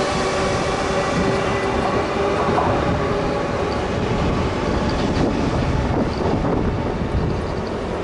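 Freight train wagons rolling past on steel rails with a steady wheel rumble and clickety-clack over the rail joints. A whine of several steady tones fades out over the first two seconds.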